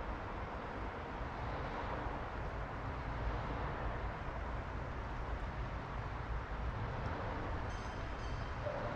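Steady rush of flowing stream water. A brief high chirp comes near the end.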